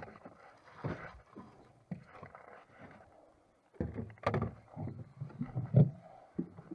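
Knocks and thumps of a hatch or lid being shut and gear being handled aboard a small fishing boat. There is a single knock about a second in, then a burst of several heavier knocks and thumps in the second half.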